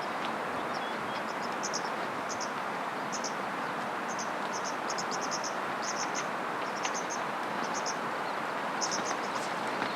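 Insects chirping high and shrill in quick clusters of two to four, about once a second, over a steady rushing background noise.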